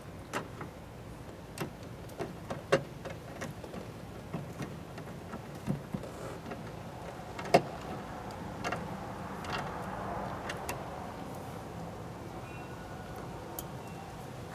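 Scattered clicks and knocks of hand work on a car door while fitting its speaker with a 7 mm socket wrench. The hits are irregular, the loudest about seven and a half seconds in.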